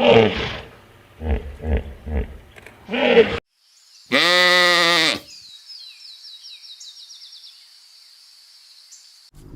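A string of short animal calls, then, about four seconds in, one loud bleat from a goat or sheep lasting about a second and falling in pitch at the end. A faint high steady tone with small chirps follows.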